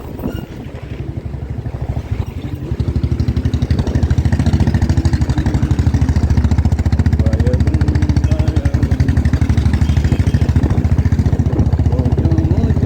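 Motorcycle engine running under way, with rapid, even firing pulses; it grows louder about three seconds in, then holds steady.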